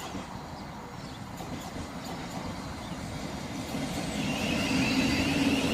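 Thameslink Class 700 electric multiple unit arriving at a platform: a steady rumble that grows louder, with a steady electrical whine setting in about four seconds in.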